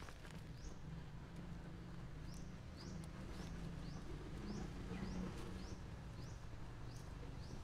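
A small bird calling: short, high chirps that rise in pitch, repeated about twice a second, over a steady low rumble.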